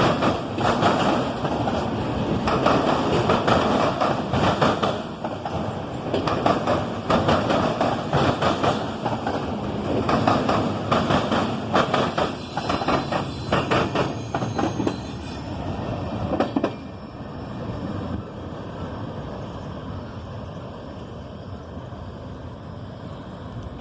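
Norfolk Southern mixed freight train's cars rolling past, wheels clattering and clacking over the rail joints. About two-thirds of the way through the clatter stops abruptly, leaving a quieter, even rumble.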